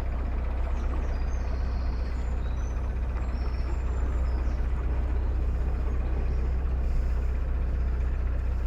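Narrowboat's diesel engine idling, a steady low drone.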